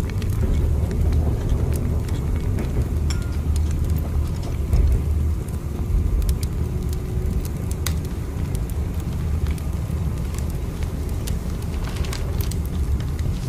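Steady low rumble of a moving train, with scattered short, sharp crackling ticks over it.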